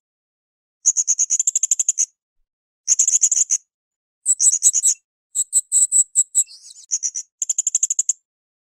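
Blue-crowned hanging parrot (srindit) calling in rapid, high-pitched trills of about ten sharp notes a second, in five short bursts of roughly a second each with brief pauses between them.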